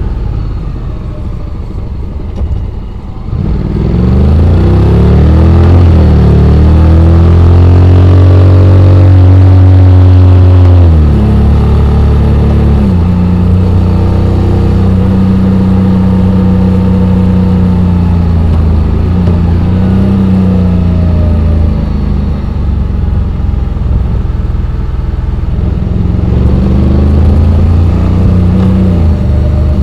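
Honda X-ADV 750's parallel-twin engine pulling on the move. About four seconds in it revs up and holds high. Near eleven seconds the revs drop sharply, and after that it runs steadily with small rises and falls in pitch.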